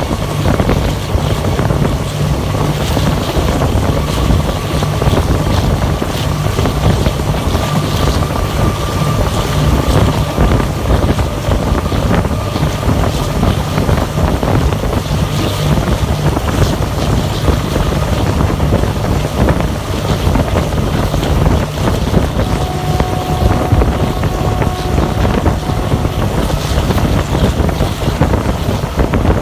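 Passenger train running at speed, heard from on board a carriage: a steady rumble of wheels on the rails mixed with a loud rush of wind. A faint steady whine sits on top of it.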